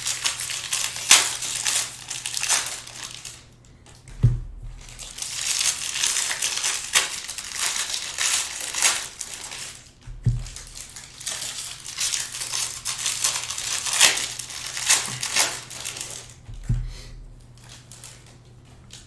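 Packaging crinkling and crumpling close to the microphone in long bouts, with three dull thumps, one at each pause in the crinkling.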